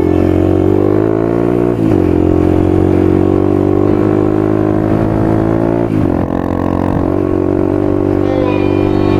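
Yamaha WR250F's single-cylinder four-stroke engine running under load while riding off-road, holding a fairly steady note that breaks briefly about two seconds and six seconds in, as at gear changes.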